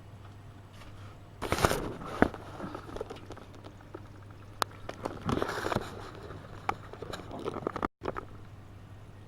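AEG Öko-Lavamat 72520 front-loading washing machine mid-wash: the drum turns and the laundry tumbles and splashes in two bursts, with scattered clicks over a steady low hum.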